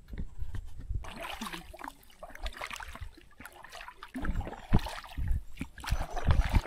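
Paddles dipping and splashing in river water as a small boat is paddled along, with uneven splashes and a few low thumps.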